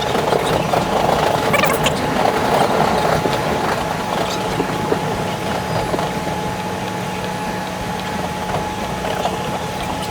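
New York subway train running along the rails, heard from inside the car: a steady hum with two held tones over wheel-and-rail rumble, and a few brief squeals in the first couple of seconds.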